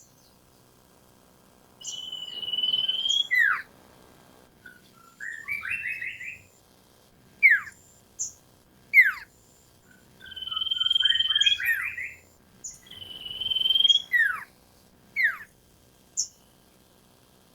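Sirtu (green iora) singing: long, steady whistled notes, quick down-slurred whistles and short chattering runs, repeated in phrases with pauses between them.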